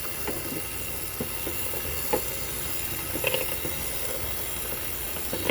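Electric hand mixer running steadily, blending flour and cocoa into brownie batter, with a few light knocks.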